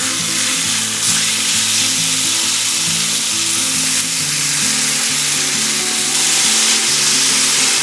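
Raw meat and vegetables sizzling on a hot, thick iron griddle as they are tipped onto it, the sizzle growing louder about six seconds in. Background music with low stepped notes plays underneath.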